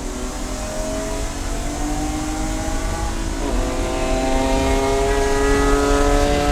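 Race car engine accelerating hard, its pitch climbing steadily. About three and a half seconds in, an upshift briefly breaks the note, and the pitch then climbs again.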